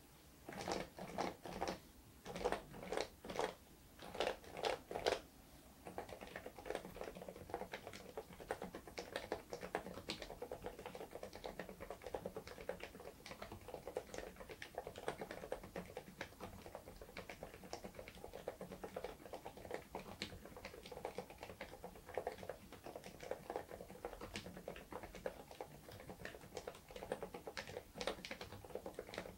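InterPixel IPK104 PRO full-size silent mechanical keyboard being typed on: a few short groups of keystrokes, then, about six seconds in, fast continuous typing.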